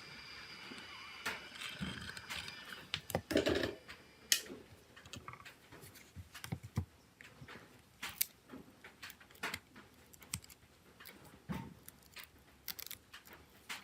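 Irregular small clicks, taps and knocks of hard plastic and metal parts being handled on a work surface, as a smartphone is taken apart with small tools. A faint high whine fades out in the first couple of seconds.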